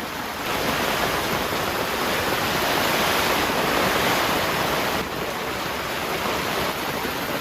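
Heavy downpour: a loud, dense hiss of pouring rain that swells about half a second in and eases back a little about five seconds in.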